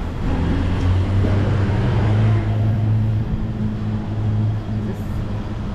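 Steady low hum of an idling vehicle engine, with street noise.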